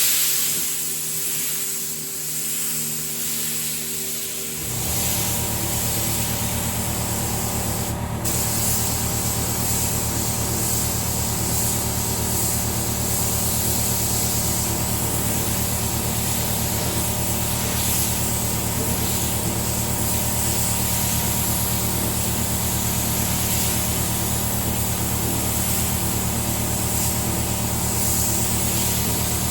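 Compressed air hissing steadily. About four and a half seconds in, an electric air compressor starts up and runs with a steady hum under the hiss.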